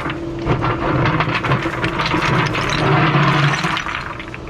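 Excavator's diesel engine running under a dense, rattling clatter of stone being poured and shifted, as when gabion baskets are filled with rock. The clatter dies down near the end.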